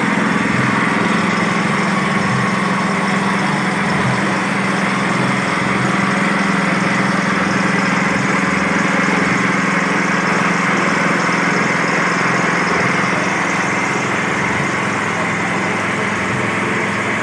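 Small engine running steadily at a constant speed, driving a simple homemade well-drilling rig.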